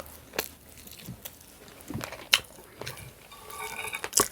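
A person chewing a mouthful of ribeye steak close to the microphone, with several short, sharp mouth clicks and smacks at irregular moments.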